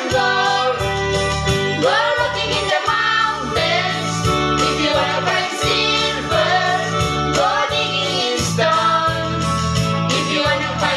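Singing voice with instrumental backing music: a melody sung in long held notes over a steady, evenly pulsing bass accompaniment.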